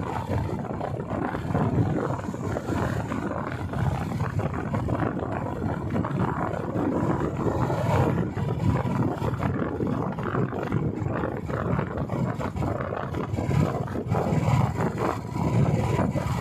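Royal Enfield motorcycle running at riding speed, a steady rough engine note mixed with wind rushing over the microphone.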